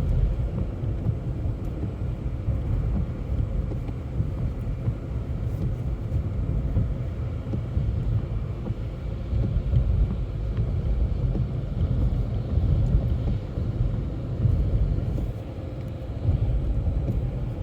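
Steady low rumble of a car driving, engine and tyres on a wet, snowy road, heard from inside the cabin.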